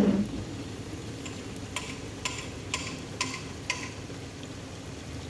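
Steady hiss of rain falling on wet pavement. Near the middle, five short, sharp sounds come about two a second.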